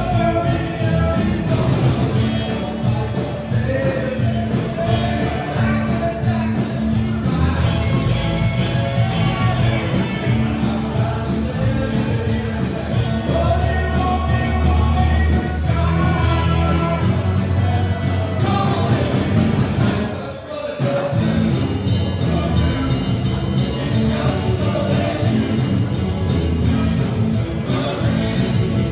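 A rock band playing with a lead vocal, the music dipping briefly about twenty seconds in.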